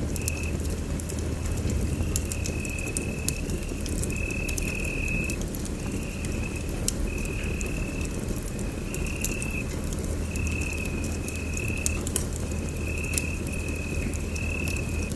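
Wood fire in a fireplace crackling, with sharp pops scattered over a steady low rumble of the flames. A thin high tone comes and goes in short stretches about every second or so.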